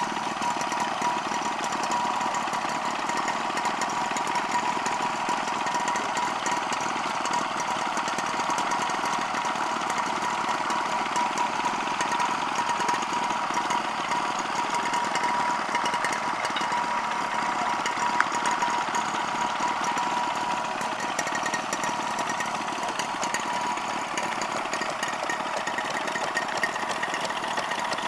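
Small stationary engines running steadily, with a constant high whine and no change in pace.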